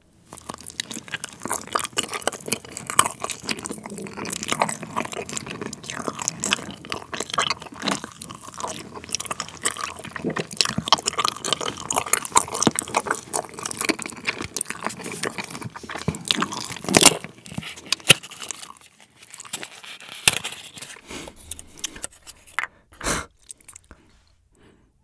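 Close-miked chewing of a Trolli Planet Gummi, a bouncy gummy sphere with a liquid jam centre: a dense run of small crackling chewing noises that turns sparser in the last several seconds.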